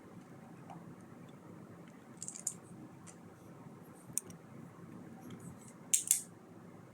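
Plastic Lego pieces being handled and pressed together: a few scattered light clicks, the loudest pair about six seconds in.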